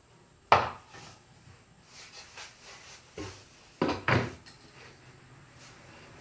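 Pieces of birch board being handled and set down on a workbench: one sharp wooden knock about half a second in, some light clatter, then two knocks in quick succession near four seconds.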